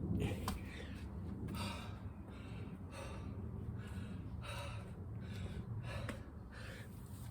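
A man breathing hard and gasping, short loud breaths in and out about once or twice a second: out of breath from a hard burpee and chin-up workout. A low steady hum runs underneath.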